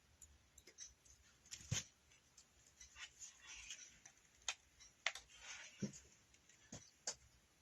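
Cutters snipping small sprigs off artificial flower stems: a handful of sharp, faint clicks spread irregularly, most of them in the second half, with soft rustling of the stems between.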